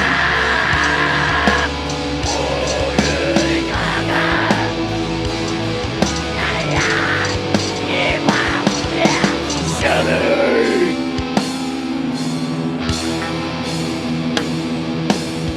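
Heavy metal band playing live: distorted guitars, bass and drums, with vocals for about the first ten seconds, after which the band plays on without them.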